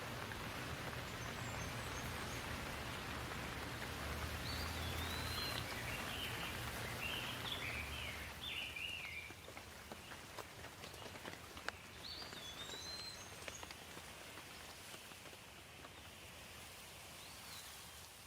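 Steady rain falling, with birds calling through it: a short arched whistle repeats a few times, and a run of chirps comes in the middle. A low rumble under the rain dies away about eight seconds in.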